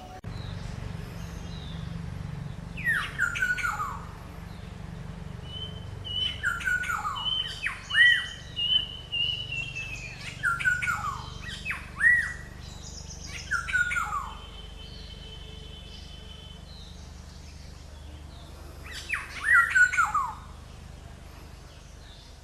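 Black-hooded oriole calling: harsh, slurred notes that each fall in pitch, given in several short bouts with pauses of a few seconds between them.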